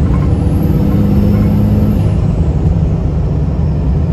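5.9 Cummins inline-six turbo-diesel running with a loud, steady rumble. A faint high whine rises and fades over the first two seconds.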